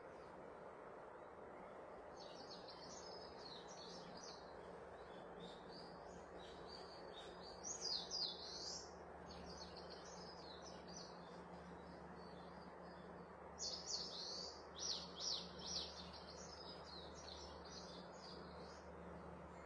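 Bird song: phrases of quick high chirps and trills, the loudest about 8 seconds in and again between about 14 and 16 seconds, over a steady background hiss.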